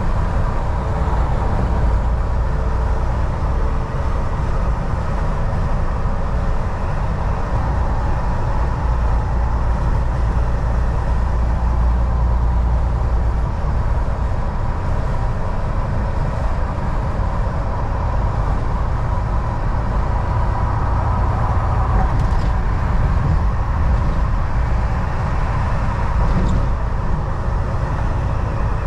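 Volvo VNL 760 semi truck on the move: steady low engine and road rumble, with a faint whine, and no change in pace throughout.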